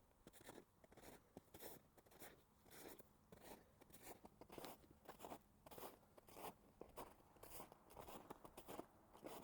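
Quiet footsteps crunching on snow and packed ice, about two steps a second at a steady walking pace.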